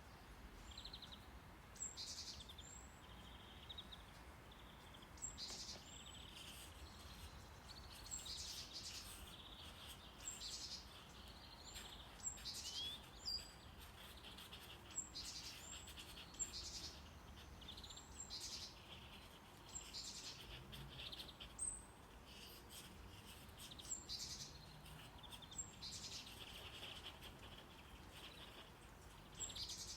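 Faint recorded birdsong: short high chirps and trills every second or two, over a steady low brown-noise hum.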